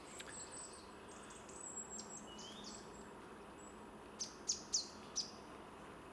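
Small songbirds calling: thin high notes scattered through the first half, then about four quick, sharp downward-sweeping chirps about four seconds in, over faint steady background hiss.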